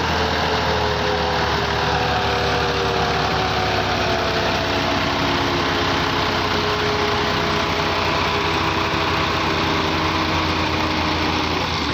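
Tractor diesel engines running hard under heavy load in a tug-of-war pull, with a whine that slowly sinks in pitch as the engines are held down. The sound eases off at the very end.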